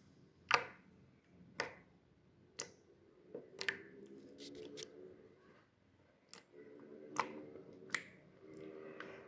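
Slime clicks: a ball of homemade slime is squeezed and poked so that trapped air pops out. About eight sharp, separate snaps come at an uneven pace.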